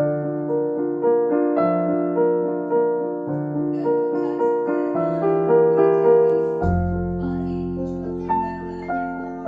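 Background piano music: a gentle melody of sustained notes over a bass line, with a deeper bass note entering about two-thirds of the way through.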